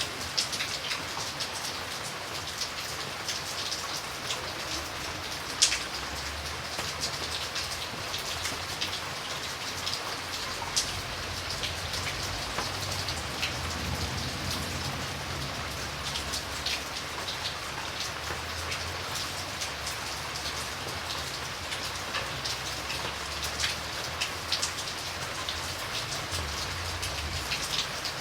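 Steady rain falling on surfaces, a continuous patter with distinct drops ticking close by; a few single drops hit louder, one about five and a half seconds in.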